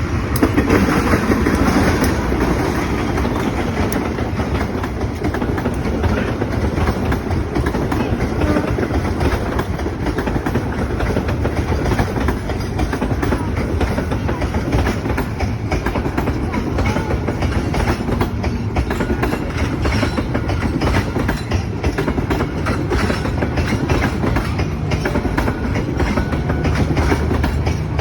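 Passenger train rolling past with a steady rumble, its wheels clicking continuously over the rail joints.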